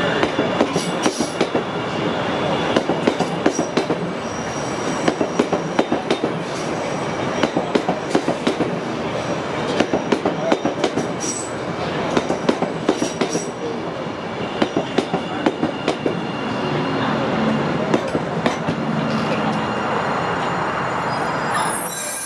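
CTA 7000-series rail cars running along the track: a steady rolling rumble with frequent sharp clacks of wheels over rail joints and a faint high wheel squeal now and then.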